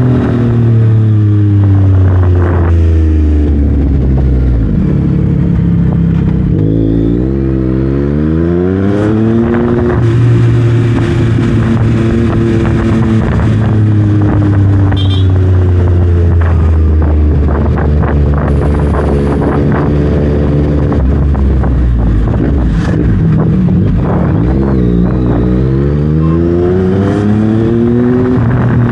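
Yamaha MT-09's three-cylinder engine through a full Dominator aftermarket exhaust, ridden on the road. The note falls for the first few seconds, climbs from about six seconds in, holds steady for a long cruising stretch, then falls and climbs again near the end, with sharp crackles throughout.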